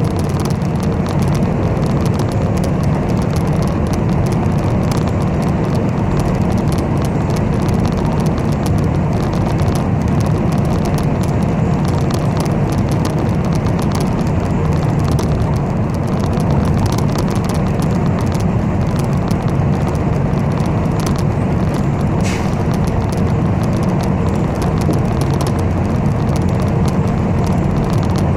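Steady engine and road rumble of a city bus driving along, heard from inside the passenger cabin.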